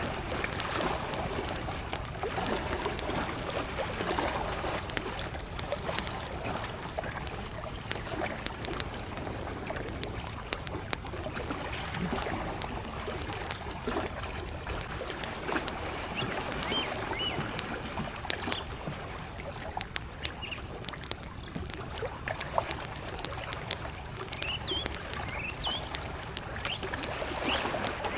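Small lake waves lapping and sloshing against the shore while a wood campfire crackles, with frequent sharp pops. A few short, high bird chirps sound faintly in the second half.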